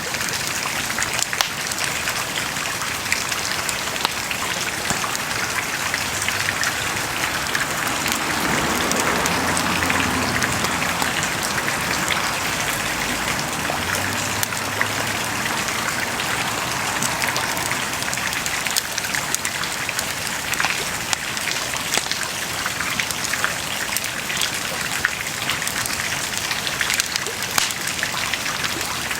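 Wood bonfire burning with a steady hiss and frequent small sharp crackles and pops.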